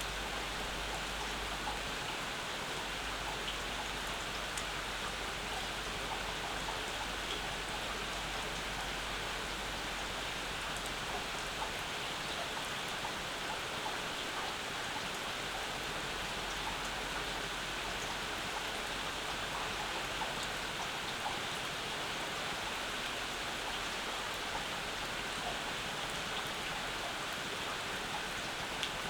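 Steady summer rain falling, with many small drops pattering on surfaces.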